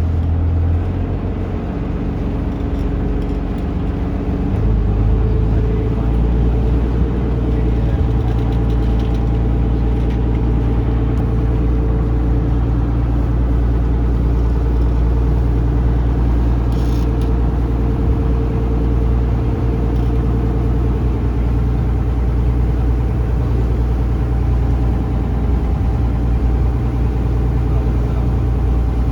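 Taxi boat's engine running steadily, a low hum that grows louder about four and a half seconds in and then holds.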